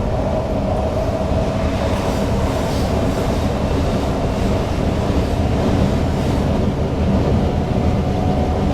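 Newag Impuls EN63 electric multiple unit running along the track, heard from the driver's cab: a steady low rumble of wheels and running gear with a steady whine over it.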